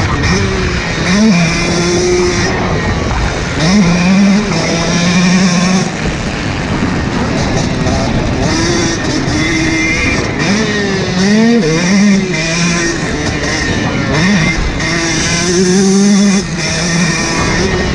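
Husqvarna TC125 two-stroke 125cc motocross bike being ridden on a track, its engine revving hard: the pitch climbs and then holds several times over as the rider rolls on the throttle and shifts.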